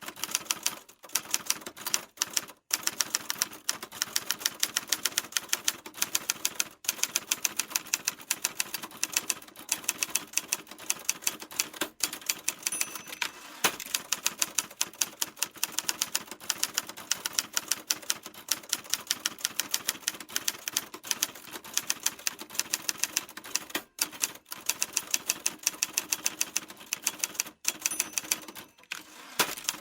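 Typewriter keys being struck in a quick, steady run of sharp clicks, several a second, broken now and then by brief pauses.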